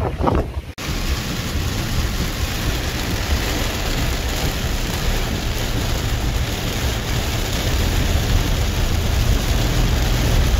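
Tropical storm wind and rain: a steady rushing noise with a heavy low rumble from wind buffeting the microphone. It breaks off briefly at a cut near the start, where a gustier stretch ends, then runs on evenly.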